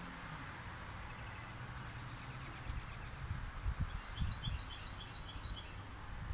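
Small birds chirping outdoors: a quick run of high chirps about two seconds in, then a series of about seven repeated short notes a second later, over a steady background hiss and some irregular low rumbling bumps.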